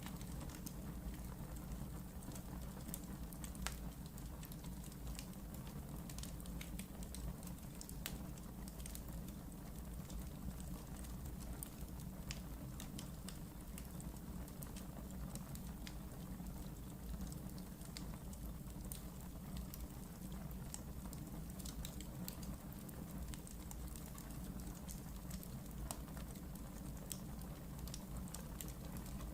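Wood fire burning in a fireplace, a steady low rumble with frequent sharp crackles and pops scattered throughout.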